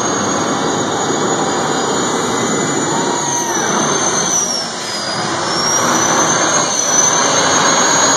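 Tractor-pull vehicle's engine running hard under load, with a high turbocharger whistle over it. The pitch and loudness sag about halfway through, then build back up.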